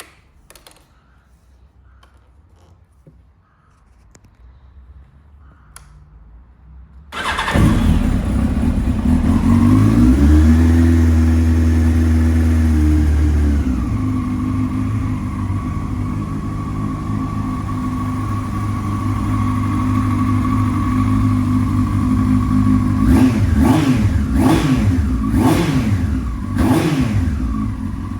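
A few faint clicks, then the 1999 Yamaha R1's inline-four engine starts about seven seconds in, exhausting through an aftermarket Quill silencer. The revs rise and hold briefly, then settle to a steady idle. Near the end there are four quick blips of the throttle.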